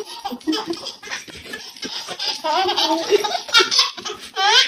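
People laughing in bouts, with high rising peaks, the loudest near the end.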